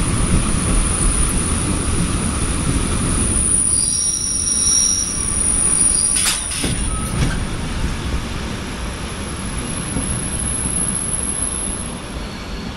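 Passenger train running, heard from inside a compartment with the window open: a steady rumble of wheels on the rails with rushing air, high-pitched wheel squeal strongest about four seconds in, and a few sharp clacks about six to seven seconds in.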